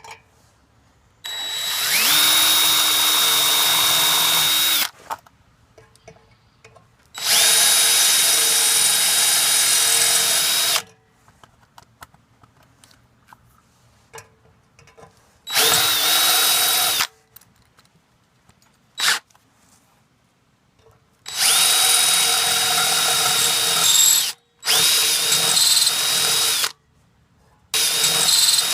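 Power drill drilling out the rivets that hold the baffles in a motorcycle's muffler pipes, run in about six separate bursts of one to four seconds, each spinning up to a steady whine and stopping.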